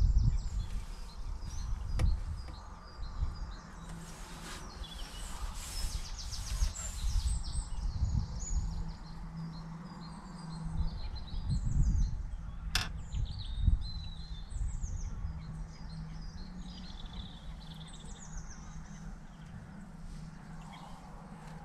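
Small birds singing and chirping, over a low rumble that rises and falls, with one sharp click about thirteen seconds in.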